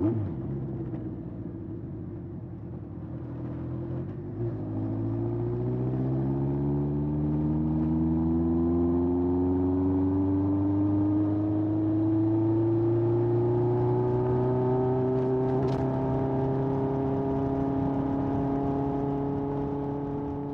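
1981 Honda CB750F's air-cooled inline-four through a Yoshimura exhaust, running at low revs, then pulling up smoothly in one gear for about ten seconds and holding a steady cruise.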